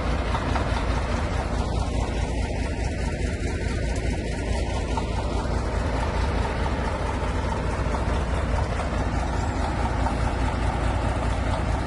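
Heavy tractor diesel engine running steadily, deep and unbroken.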